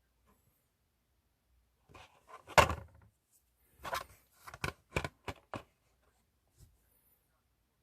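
Hot Wheels blister-pack packaging being handled and opened: crinkling plastic and card, loudest about two and a half seconds in, followed by a quick run of sharp clicks.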